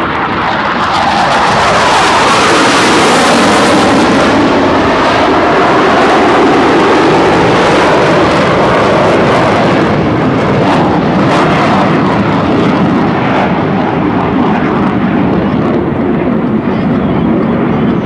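US Navy Blue Angels F/A-18 Hornet jets passing low: a loud jet roar that swells in the first two seconds, with a falling whine as they go by, then keeps running loud.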